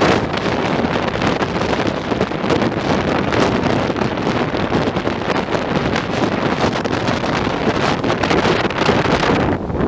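Wind rushing and buffeting on the microphone over the running noise of a moving express train, a loud, steady rush with no break.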